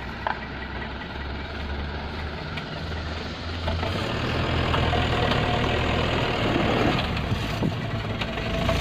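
Dump truck's diesel engine running steadily, getting louder about four seconds in, with a faint steady whine in the later seconds and a few light clicks.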